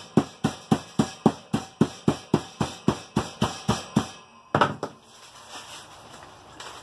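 Mallet pounding coffee beans in a plastic zip-top bag, quick steady blows at about four a second, ending with one harder strike about four and a half seconds in, then stopping.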